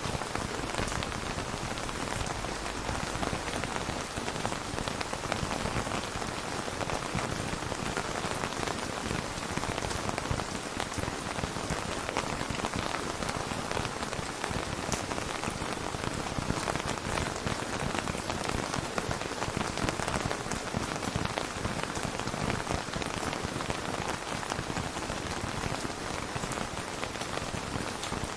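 Steady rain falling in a dense patter of drops, with no thunder.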